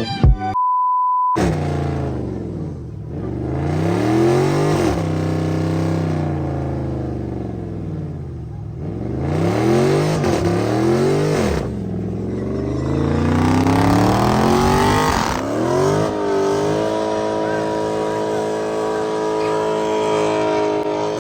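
A short steady beep, then a car engine revved repeatedly, its pitch climbing and dropping several times. Near the end the engine is held at steady high revs.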